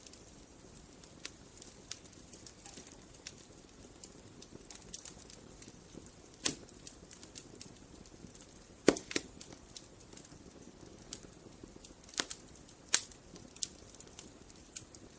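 Campfire crackling: irregular sharp pops and snaps of burning wood over a soft low hiss, with a few louder cracks scattered through.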